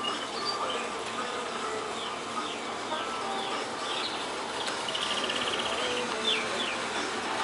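Small birds chirping: many short, falling chirps scattered through, with a quick, rapid trill about five seconds in, over a steady background hiss.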